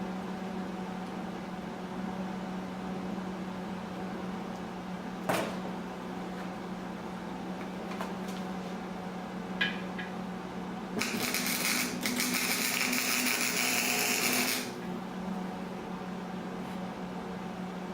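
An angle grinder runs briefly on steel, about three and a half seconds of rough grinding noise, over a steady low hum. A single sharp click comes a few seconds before it.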